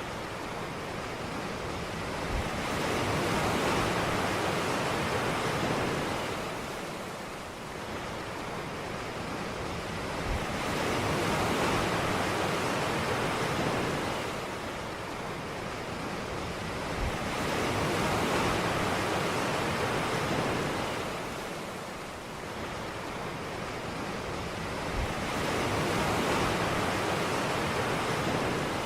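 Ocean surf breaking on a beach: the wash of the waves swells and fades about every eight seconds, four times.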